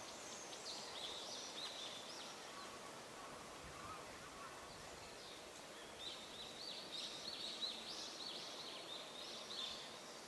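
A small bird singing two twittering phrases of quick high notes, a short one near the start and a longer one from about halfway, over faint outdoor background noise.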